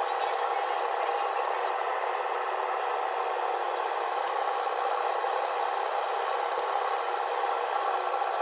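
Heavy machinery running steadily, a constant mechanical din with rattling and scraping and two sharp clicks, one about four seconds in and another a couple of seconds later.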